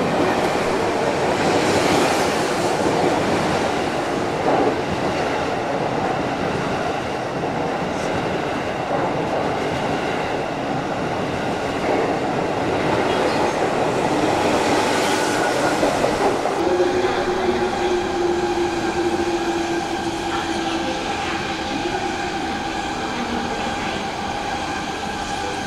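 JR 215 series double-decker electric train running past at close range. About two-thirds of the way in, a steady whine joins as a second electric train, a Sotetsu 12000 series, draws in on the next track.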